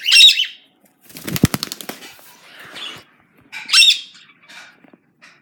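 Pet bird giving a loud, high squawk, then beating its wings rapidly for about a second, then squawking loudly again.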